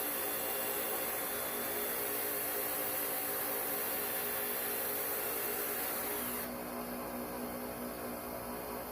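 Electric drill running steadily, with a constant hum underneath; the drill stops about six and a half seconds in.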